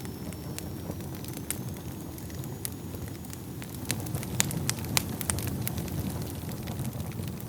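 Wood fire burning in a fireplace: a steady low rumble of flames under irregular sharp crackles and pops from the burning logs. The pops come thicker and louder about four to five seconds in.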